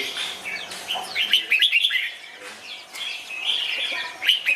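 Red-whiskered bulbuls chirping and calling in quick runs of short, falling notes. The runs come about a second in and again near the end.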